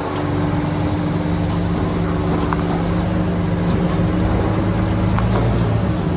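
Heavy diesel engine of earthmoving machinery running steadily at a constant pitch, with a couple of faint clicks.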